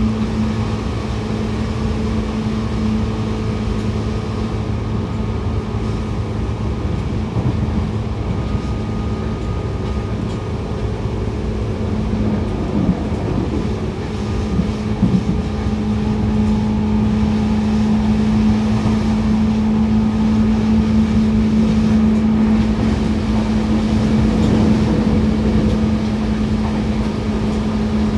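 Seibu 2000 series electric commuter train running: a steady low hum with a constant tone over wheel-and-rail rumble, with a few knocks around the middle and the sound rising slightly later on.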